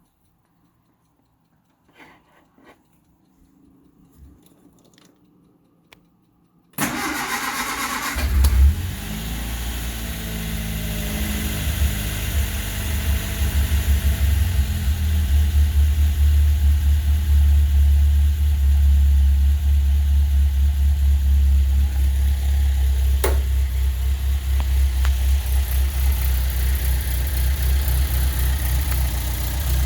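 1963 Datsun Fairlady 1500's four-cylinder engine started from cold: after a few faint clicks, the starter cranks for about a second and a half, the engine catches with a brief rev and settles into a steady, loud fast idle.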